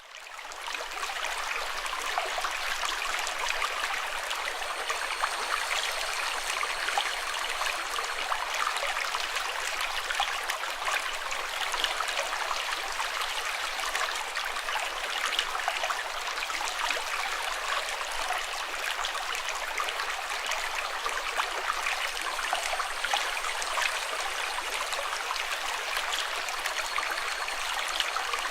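Running water: a steady, even rush of flowing water that fades in at the start.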